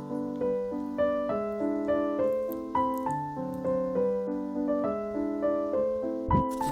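Background piano music: a gentle melody of evenly paced notes over held chords. A single soft thump sounds near the end.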